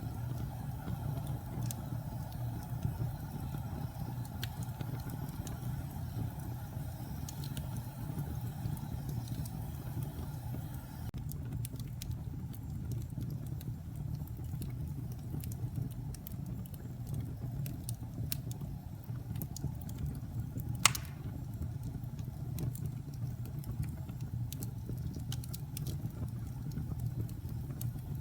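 Wood fire crackling in a fireplace: a steady low rumble of the burning logs with scattered sharp crackles, and one louder pop about three-quarters of the way through.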